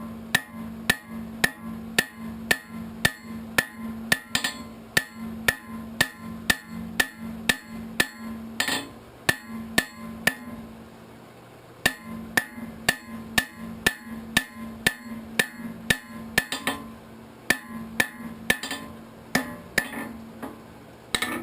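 Hand hammer striking hot 3/8-inch steel rod on an anvil, drawing out the back of a socketed arrowhead into a fan. The blows come in a steady run of about two to three a second, with a short pause near the middle before the hammering picks up again.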